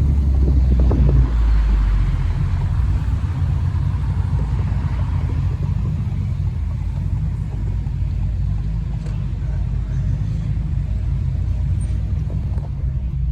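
A car on the move: a steady low rumble of engine and road noise, a little louder in the first couple of seconds.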